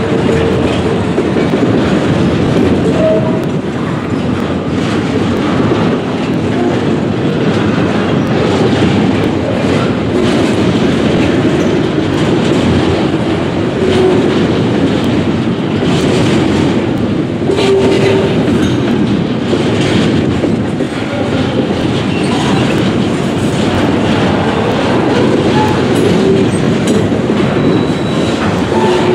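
Double-stack intermodal well cars of a freight train rolling past close by: a loud, steady rumble with the clickety-clack of wheels over the rail joints.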